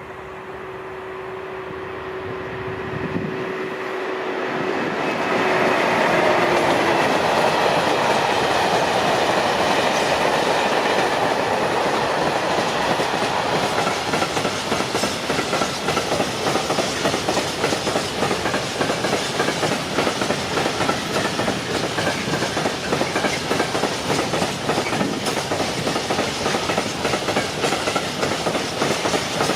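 A freight train passing close by. The locomotive approaches and grows louder over the first several seconds with a steady tone, then a long run of wagons goes past, the wheels clattering rhythmically over the rail joints.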